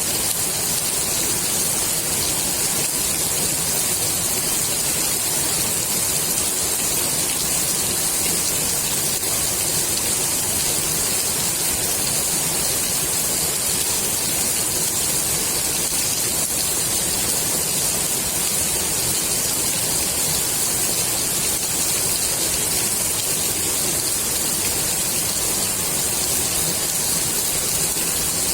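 Steady rain falling onto the water of a swimming pool: an even, unbroken hiss of drops on the surface.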